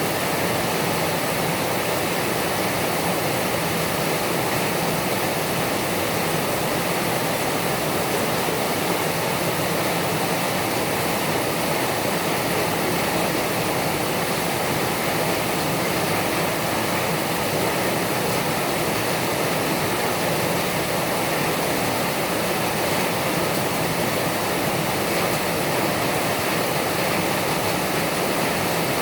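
Heavy rain falling: a steady, dense hiss of downpour.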